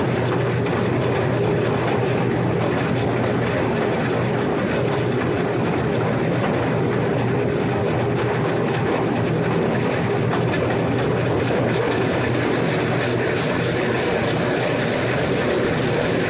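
Case IH 2388 combine running steadily while cutting wheat: its diesel engine and threshing machinery give an unbroken hum under a wide, even noise.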